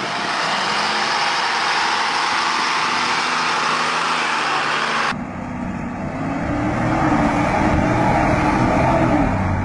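Heavy truck engine labouring under load, mixed with a dense noise for the first five seconds. About five seconds in the sound changes abruptly to a lower engine drone whose pitch rises and then falls.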